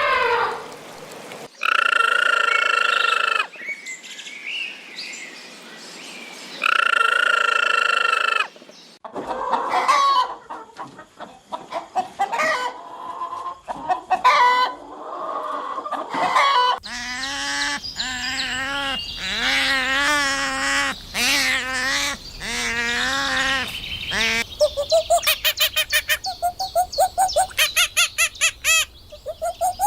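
Chickens clucking and calling: a series of separate pitched calls, some long and steady, some short and irregular. Near the end come quick repeated high chirps.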